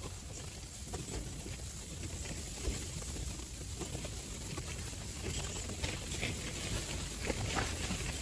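Strong wind buffeting the microphone in a low rumble, with light irregular pattering and ticking, like blown snow hitting, that grows a little louder and busier in the second half.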